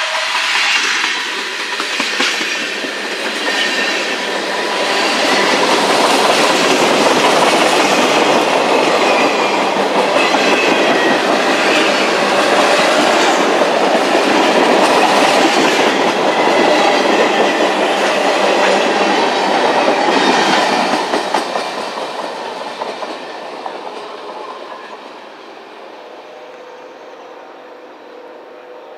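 Freight train of tank cars and covered hoppers rolling past, the steel wheels clicking over rail joints with some thin squealing. The sound fades away about three quarters of the way through as the last cars go by.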